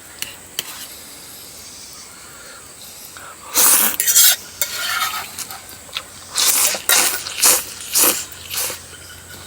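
Close-up eating sounds of khanom jeen rice noodles in curry sauce being slurped. The loudest and longest slurp comes about three and a half seconds in, followed by a run of shorter slurps in the second half.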